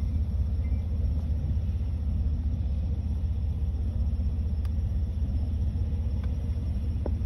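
Steady low rumble of a freight train rolling past on single track, heard from inside a car.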